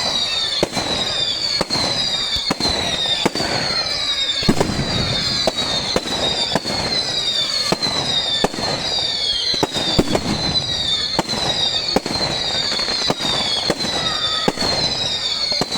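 Bonfire-night fireworks display: a rapid, continuous run of bangs and crackles, with short whistles that fall in pitch, one after another.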